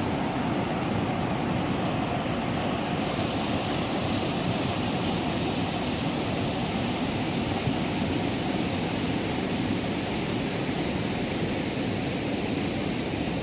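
Waterfall: falling water making a steady, even rush. The hiss in the upper range grows a little about three seconds in.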